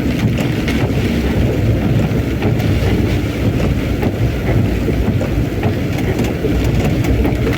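Strong wind and heavy rain buffeting the microphone: a loud, steady rushing noise, heaviest in the low end.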